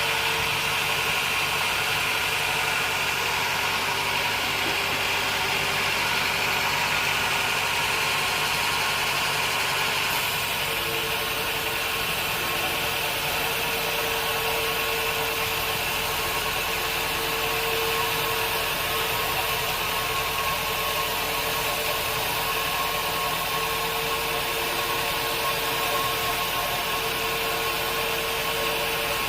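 Band sawmill running steadily, a constant machine drone with a hiss over it; its character shifts abruptly about ten seconds in, then holds steady again.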